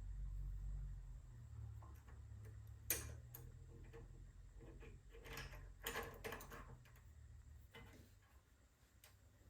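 Small metal and plastic parts clicking and rattling as a snowblower carburetor's choke linkage is fitted by hand: a sharp click about three seconds in, a cluster of light rattles around six seconds, and a few faint ticks near the end.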